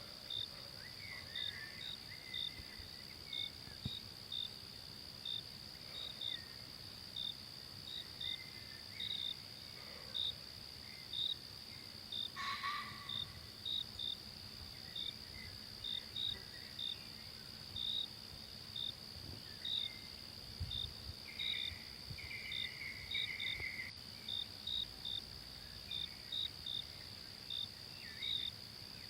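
Forest ambience of insects: a steady high drone with short chirps about once a second. Occasional soft calls sound over it, with a louder one near the middle.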